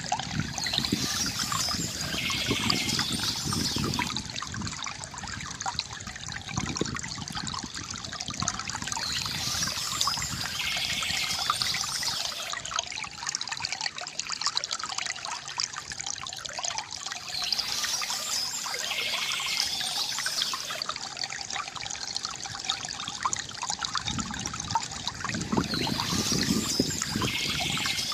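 River water gurgling and trickling steadily. Over it, a short spell of bird chirping comes back about every eight and a half seconds, four times.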